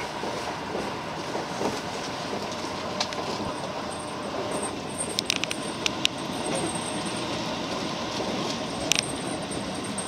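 JR 205-series electric commuter train running, heard from inside the carriage: a steady rumble and hiss of wheels on rail, with sharp clicks about three seconds in, a cluster of them around five to six seconds, and another near nine seconds.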